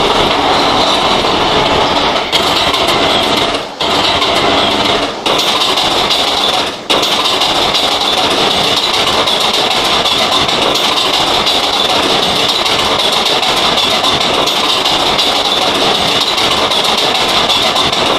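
Steady hum and rumble inside an R143 subway car, dipping briefly a few times in the first seven seconds.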